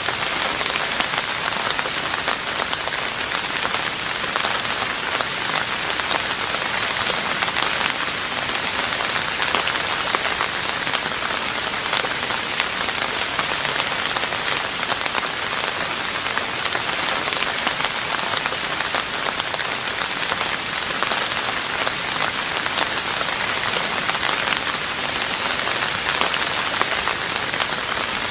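Steady rain falling on a roof, a dense, even patter of drops with no change in strength.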